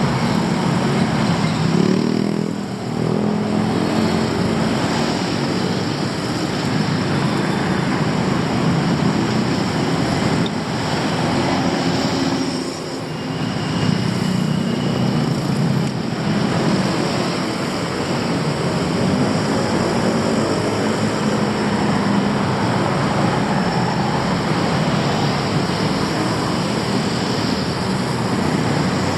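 Dense, steady city road traffic: the engines and tyres of passing cars and motorbikes blending into a continuous hum, with two brief dips in loudness.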